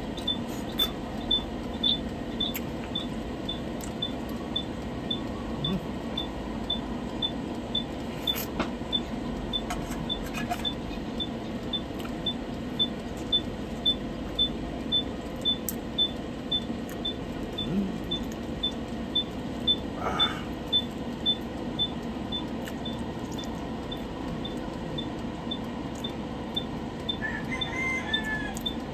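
A man eating baked scallops on the half shell: close chewing and shells handled on a metal tray, over a low room hum. A steady high ticking runs through it at about one and a half ticks a second.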